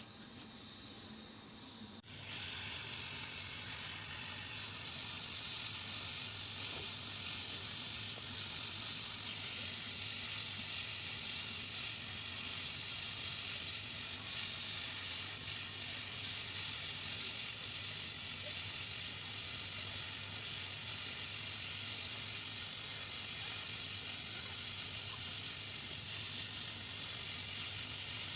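Hot-air rework station blowing a steady hiss of hot air, which starts suddenly about two seconds in, as it heats a surface-mount IC to desolder it from a circuit board.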